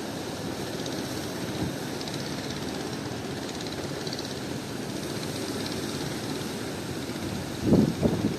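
Strong wind rumbling steadily on the microphone, with a couple of louder gusts buffeting it near the end.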